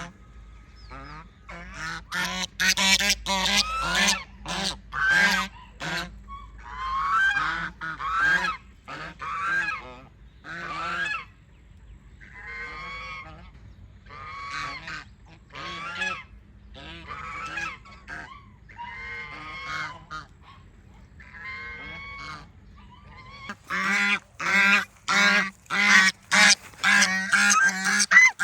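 Goose honking again and again in a long run of harsh calls, often several a second, thickest at the start and again near the end.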